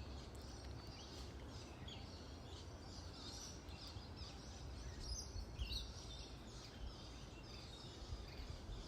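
Faint background birdsong: scattered short chirps, busiest about halfway through, over a low steady rumble.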